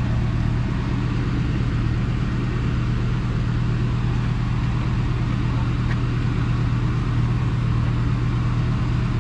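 An engine running steadily at low speed, a constant low hum that holds one pitch.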